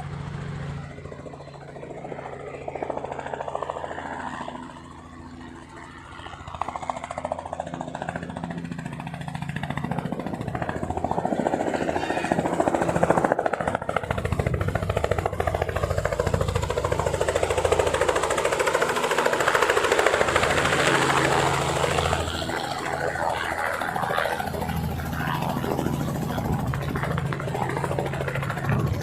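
Helicopter engine and rotor running with a steady low hum. A louder rushing noise builds from about ten seconds in and stays loud.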